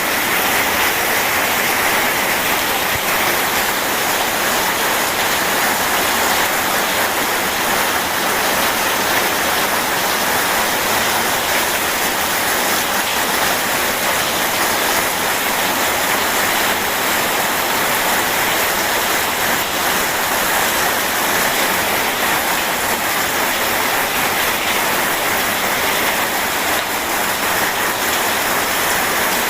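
Steady rain and rushing river water blended into one dense, even hiss, with no thunder.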